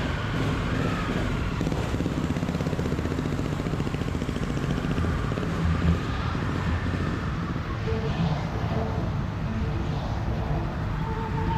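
Steady motor-vehicle running noise, a continuous low rumble, with a steady high tone coming in near the end.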